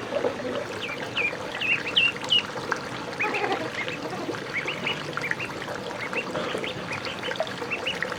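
Ducks calling: many short, high calls in quick succession, a few louder ones about two seconds in, over water trickling.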